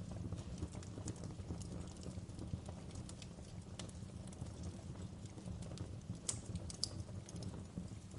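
Wood fire crackling in a fireplace: irregular sharp pops and snaps over a steady low rumble of the burning logs, with a couple of louder pops about six seconds in.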